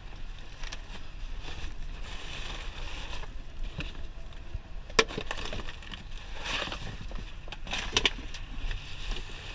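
Scrap being rummaged through and handled in a dumpster: rustling and scraping with a sharp knock about halfway through and a few more knocks near the end, over a low steady rumble.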